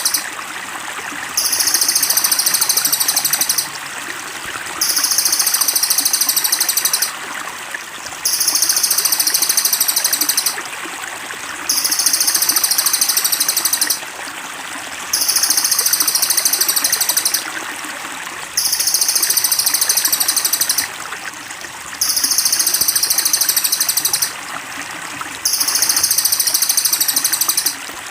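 Birdsong master recording: a high, rapid, buzzy trill in phrases of about two seconds, repeated evenly about every three and a half seconds, over steady trickling water.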